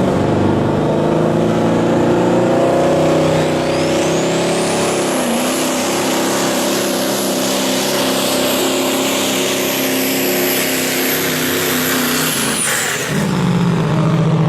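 Modified diesel semi truck engine running hard through a sled pull. A high turbocharger whistle climbs about four seconds in, holds, then falls away near the end as the engine lets off. A lower, steadier engine hum follows.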